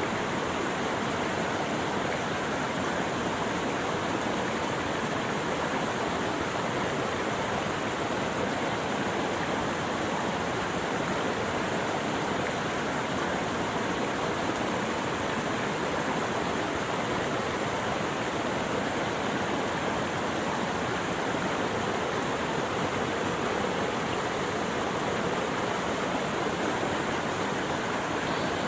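Steady rushing flowing water, an even unbroken wash with no changes in level.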